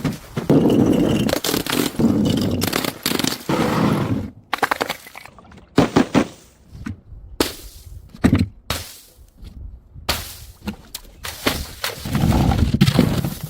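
Glass bottles breaking: a long crunching shatter, then a string of sharp cracks and clinks from falling shards, and another crunching smash near the end.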